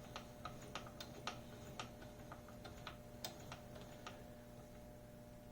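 Small manual milling machine's table being cranked by hand, moving a dial indicator along the vise jaw: faint, irregular light clicks, thinning out after about four seconds, over a faint steady hum.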